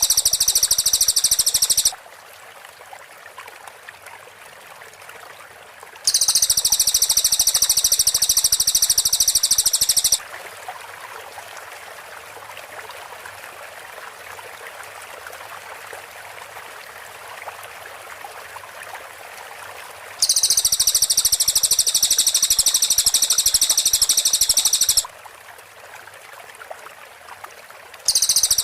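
Cililin songbird giving its rapid, very high-pitched machine-gun trill, the tight 'tembakan' call, in four bursts of a few seconds each. A steady hiss fills the gaps between them.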